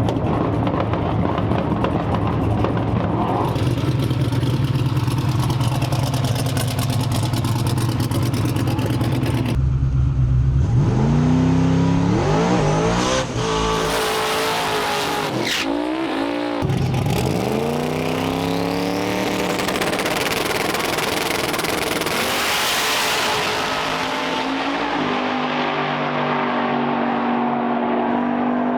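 A drag-race car's engine drones steadily, then about ten seconds in it launches and revs hard. The pitch climbs and drops back several times through gear changes, and the engine keeps running at high speed.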